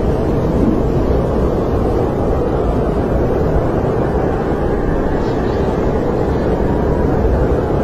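Snowstorm wind blowing steadily, a deep, even rush of noise without gusts or breaks.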